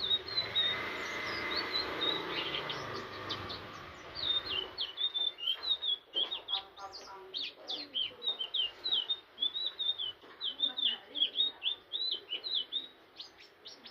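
Indigo flycatcher (sikatan ninon) singing a fast, high twittering song of short chirps that keeps going without a break. A low background rumble and hum under the first few seconds stops about five seconds in.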